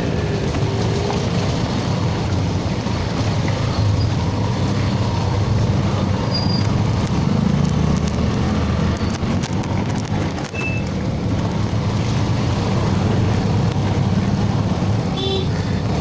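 Yamaha FZS motorcycle's single-cylinder engine running steadily under way, with road and wind noise on the microphone.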